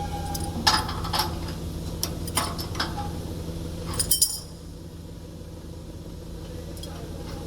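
Metal tools and machine parts clinking and knocking a handful of times over a steady low hum; the clatter stops about four and a half seconds in, leaving only the hum.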